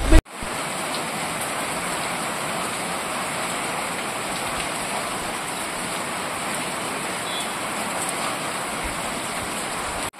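Heavy rain falling steadily onto a waterlogged paved street.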